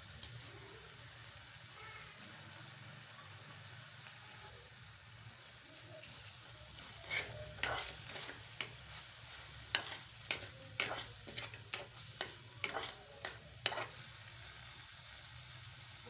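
Food frying in oil in a pan, a steady sizzle, with a utensil stirring and knocking against the pan in a run of sharp scrapes and clicks from about halfway through.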